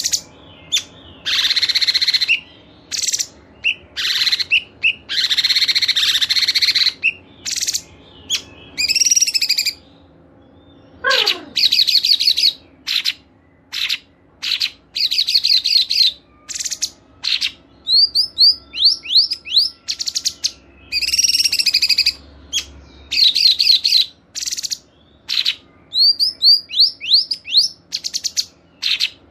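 Songbirds singing loud, clear phrases: short bursts of high chirps and fast trills separated by brief pauses, with runs of quick rising notes in the second half and one falling glide about eleven seconds in.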